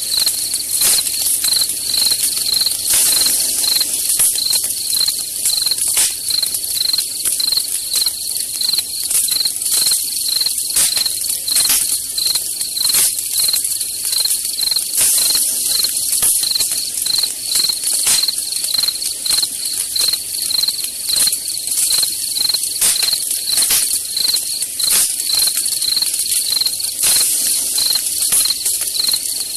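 Crickets chirping in a steady stream of rapid, regular pulses, over a wood campfire crackling with scattered sharp pops.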